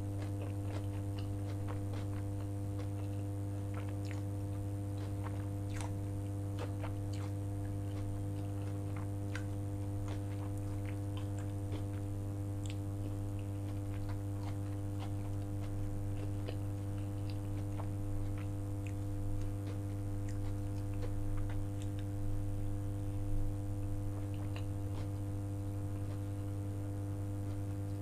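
Close-miked chewing of a mouthful of vegetable sushi, with many small mouth clicks scattered irregularly, over a steady low electrical hum.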